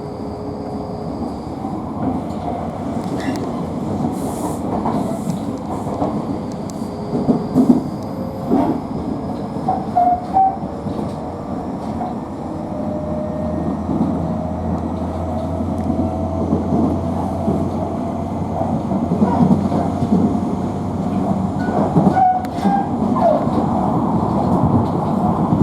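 Electric commuter train running between stations, heard from inside the carriage: a steady wheel-and-rail rumble with scattered clicks over rail joints. A faint whine rises slowly in pitch through the first half, and a low hum comes in about halfway through.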